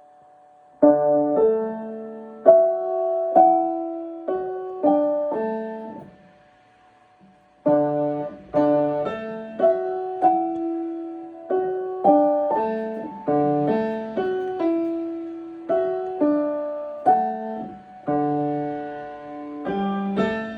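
Piano playing a melody over chords, starting about a second in, stopping briefly around six seconds in, then going on with notes struck at an even pace.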